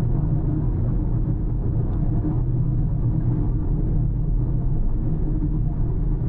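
Car driving at a steady pace, its engine and tyre noise making a continuous low rumble.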